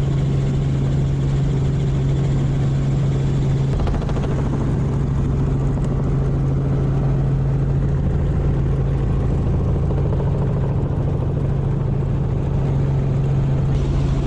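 Sightseeing helicopter in flight heard from inside its cabin: the engine and rotor give a loud, steady noise with a strong low hum.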